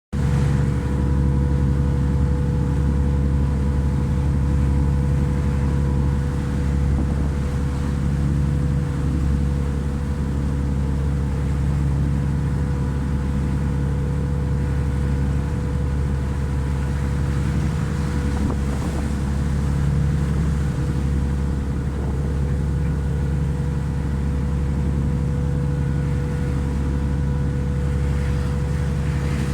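A ship's diesel engine running steadily: a constant low drone with a steady hum.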